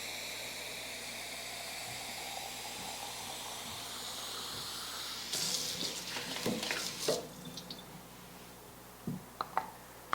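Water running from a kitchen tap into a jar of cut vegetables, stopping about five seconds in. A short clatter of handling follows, then a few light knocks.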